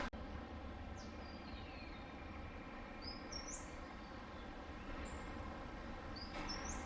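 Rainforest birds calling over a steady background hiss and low rumble: a falling whistle about a second in, then several short, high rising chirps.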